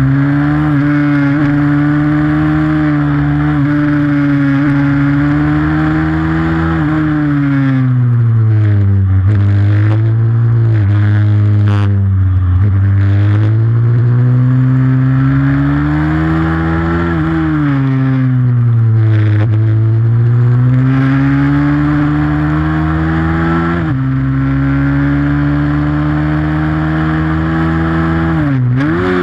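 Pit bike engine running hard during a race, its revs climbing and falling again and again as the bike accelerates and slows through corners, with a brief sharp drop in revs near the end.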